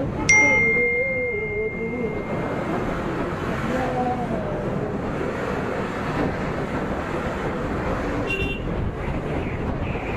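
Steady road and traffic noise with wind on the microphone during a motorcycle ride. Just after the start a sudden clear ringing tone fades out over about two seconds. About eight seconds in there is a short horn toot.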